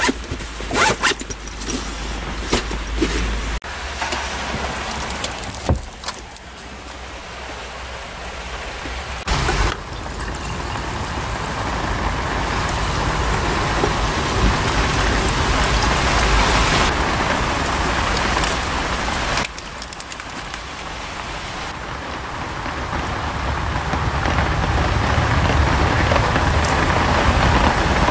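Steady heavy rain, changing character abruptly a few times and growing louder toward the end. A few sharp drop taps come in the first few seconds.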